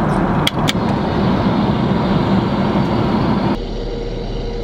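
Steady airliner cabin roar in flight, with two sharp clicks about half a second in and a faint steady motor whine near the end from the suite's motorized drinks compartment.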